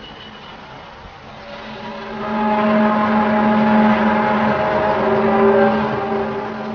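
Eerie drawn-out droning of the kind passed around as a mysterious 'sky trumpet' sound: a steady low hum with layered brassy tones that swell loud about two seconds in and ease off near the end.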